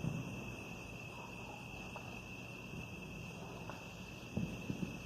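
Crickets chirping in a steady high-pitched chorus, fairly faint, with a few soft low knocks a little over four seconds in.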